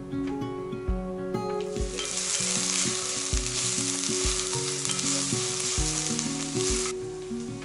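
Sliced green onions sizzling in hot oil in a glass pot while being stirred with a wooden spatula. The sizzle starts about two seconds in and stops near the end, over soft background music with a steady beat.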